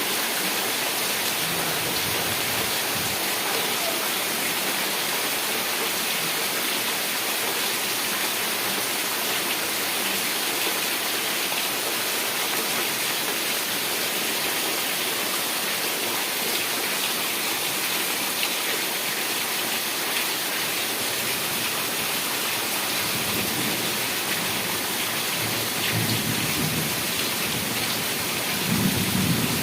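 Heavy rain falling steadily, with low rumbles of thunder swelling over the last few seconds.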